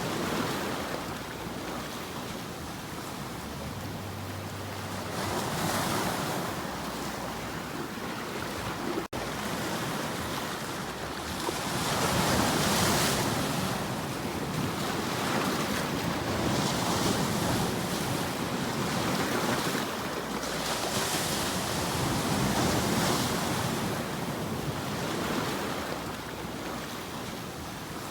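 Ocean waves washing onto a shore, the surf swelling and falling back every few seconds, with a steady wash of wind noise. The sound cuts out for an instant about nine seconds in.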